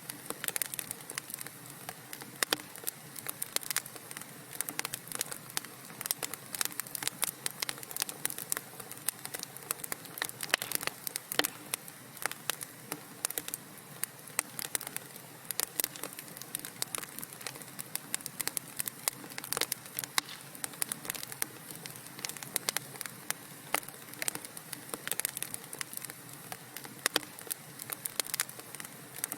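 Wood fire crackling in a fireplace: many irregular small pops and snaps over a steady soft hiss, with no pause.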